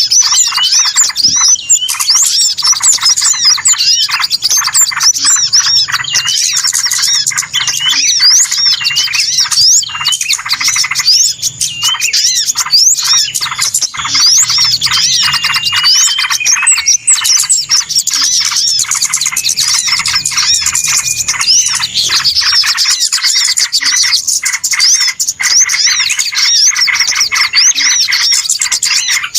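Dense, busy chorus of many small birds chirping rapidly over one another, a bird-lure (pikat) call recording for attracting small birds. A couple of longer steady whistles stand out in the middle.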